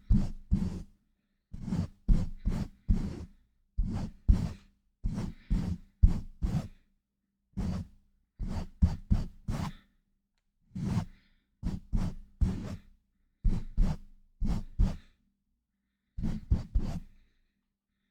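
Hands pumping and rubbing rapidly over a microphone: short, noisy whooshing thumps in quick clusters of two to four, with dead silence between the clusters.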